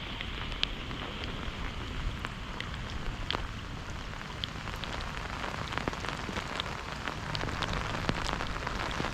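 Heavy rain pouring down, a steady hiss with many individual drops pattering close by.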